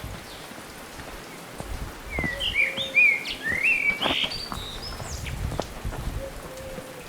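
A songbird singing a quick phrase of warbled, up-and-down notes for a few seconds in the middle, over outdoor background noise with scattered small clicks.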